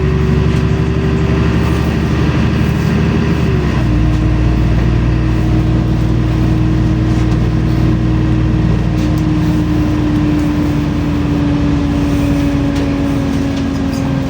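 LiAZ-5292 city bus under way, heard from inside: the diesel engine and drivetrain run with a steady low rumble and a whine. The whine steps down in pitch about four seconds in, then sinks slowly.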